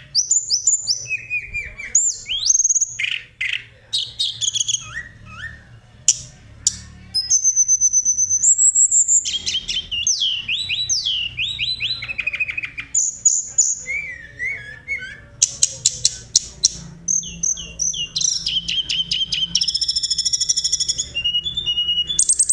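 Tledekan gunung (Sunda robin) singing a long, varied song of clear whistled phrases, with many sliding notes broken by fast chattering trills. A faint low hum runs underneath.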